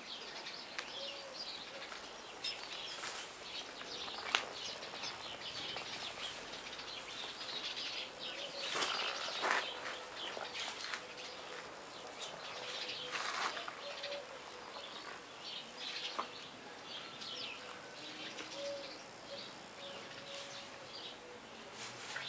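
Birds chirping and calling at intervals, short scattered chirps over a steady outdoor background.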